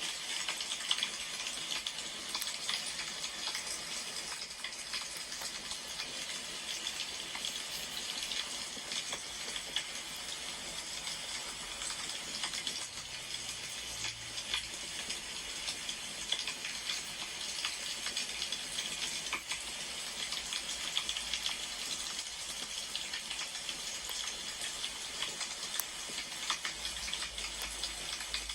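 Firewood burning with a steady hiss and a constant scatter of small irregular crackles and pops.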